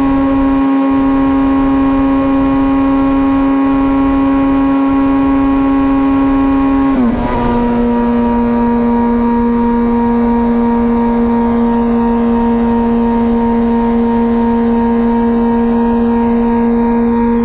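2004 Honda CBR1000RR Fireblade's inline-four engine through a Jardine titanium exhaust, running at steady revs under way. About seven seconds in, the revs drop quickly, then hold steady again at the lower pitch.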